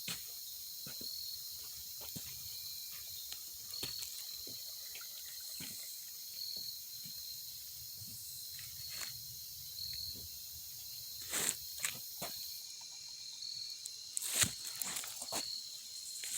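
Steady high-pitched insect chorus, with a short chirp repeating about every two seconds. Scattered soft clicks and knocks come through, louder and closer together in the last few seconds.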